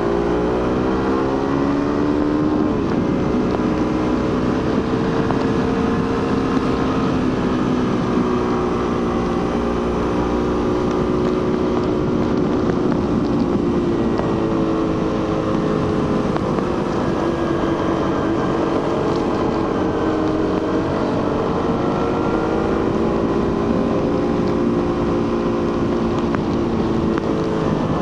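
Suzuki GSX-R150's single-cylinder 150 cc engine through its stock exhaust, heard from on board while riding. The engine note climbs in pitch under acceleration in the first few seconds, holds steady, drops around the middle, then climbs again through the second half before easing off near the end.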